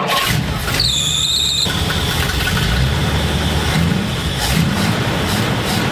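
Ford Galaxie's V8 engine running with a steady rough rumble, with a brief high-pitched squeal a little under a second in that lasts under a second.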